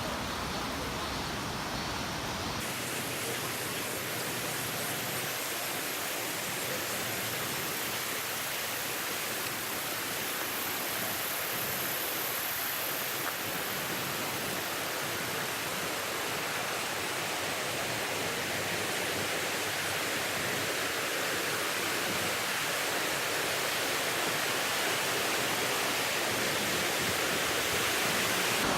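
Waterfall water rushing in a steady, dense hiss, the deepest rumble dropping away about three seconds in and the sound growing slightly louder toward the end.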